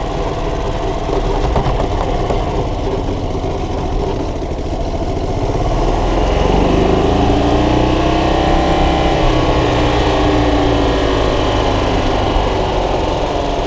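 The single-cylinder gas engine of a 1993 Club Car golf cart running steadily. About halfway through it speeds up and grows louder for a few seconds, then eases back down.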